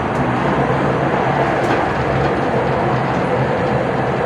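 Steady running rumble of a moving vehicle heard from inside, a continuous low drone with no breaks.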